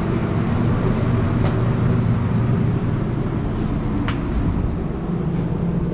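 Steady low rumble and hum of the train's machinery, heard inside a passenger car, with two light clicks about a second and a half and four seconds in.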